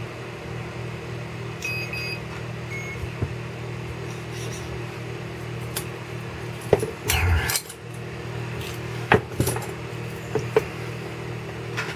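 Clicks and knocks of hands handling an RC crawler and plugging in its battery, with short electronic beeps from the electronics about two seconds in and a louder rustling clatter about seven seconds in, over a steady background hum.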